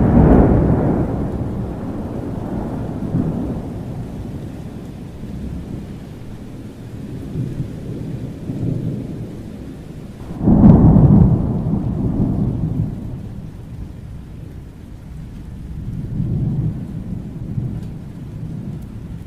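Thunderstorm: rolling thunder over steady rain, with a loud crack-and-rumble starting right away and a second, louder clap about ten seconds in, each rumbling away over several seconds.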